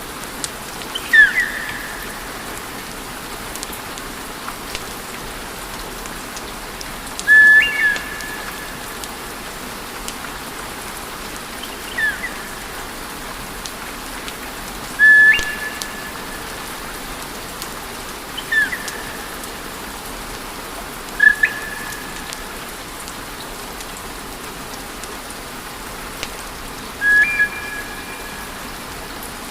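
Log fire crackling and hissing steadily with scattered small pops. About every three to four seconds comes a short whistle, some falling quickly in pitch and some held flat with a step up.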